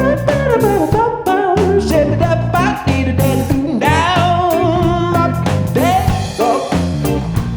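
Live band playing an upbeat song on drum kit, bass and guitar, with a melody line sliding up and down over the rhythm.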